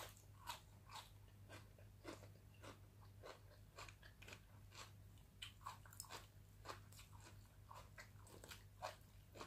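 Faint close-miked eating sounds: soft chewing and irregular mouth clicks and smacks, about two a second, over a steady low hum.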